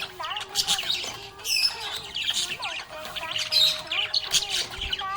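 Budgerigar chirping and warbling, a rapid run of short chirps and squawks with quick rises and falls in pitch.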